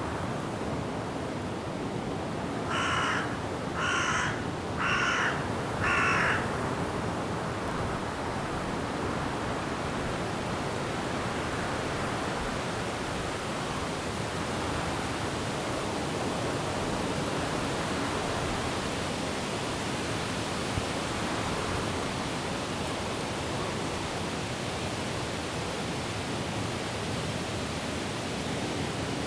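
Steady rushing noise of wind and rain in the forest trees. About three seconds in, a crow-like bird gives four short harsh caws, about one a second.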